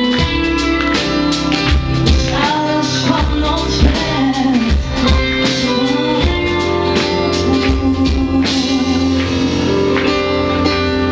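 Pop-rock band performing live: a woman singing over electric guitars, bass and drums. The low end sounds rough and overloaded because the camera microphone cannot cope with the bass.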